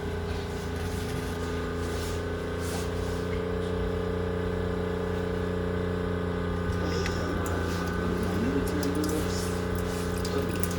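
A steady low machine hum made of several held tones, with a faint wavering sound over it in the second half.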